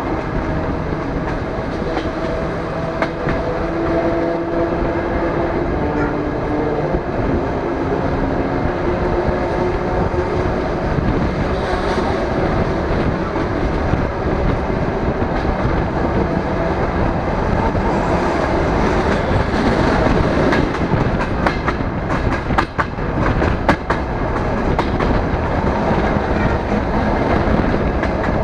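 DR1A diesel multiple unit running at speed, heard through an open carriage window: a steady rumble of wheels on rail and rushing air. A quick run of sharp wheel clicks over rail joints comes about three-quarters of the way through.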